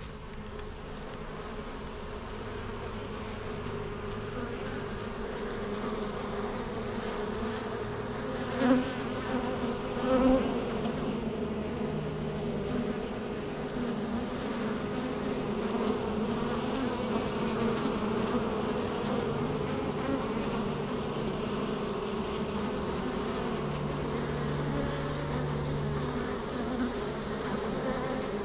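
Honeybees buzzing at a hive entrance: a steady drone of many wingbeats that slowly swells, with two short, louder buzzes of single bees about a third of the way in.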